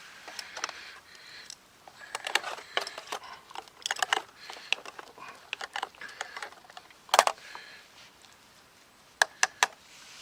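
A run of irregular small clicks and light clattering, with a sharp knock about seven seconds in and three quick clicks near the end.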